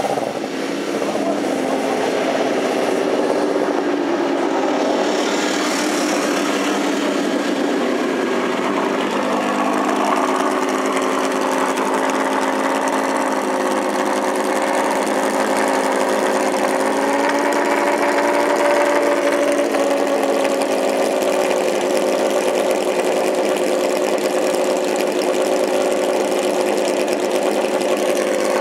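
Lancia Stratos rally car's engine idling steadily, with a slight brief rise in revs around the middle.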